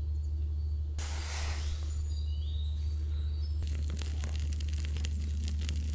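Campfire kindling catching: a rush of noise for a couple of seconds, then dense crackling of burning wood from about three and a half seconds in, over a steady low hum.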